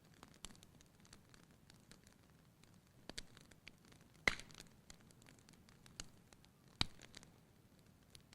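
Wood fire burning in a fireplace, crackling: scattered small pops over a quiet hiss, with a sharp louder pop about four seconds in and another near seven seconds.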